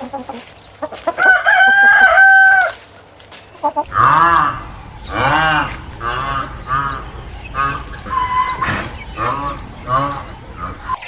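Chickens: a rooster crows once, holding a long note, then hens cluck in a run of short rising-and-falling calls, about two a second.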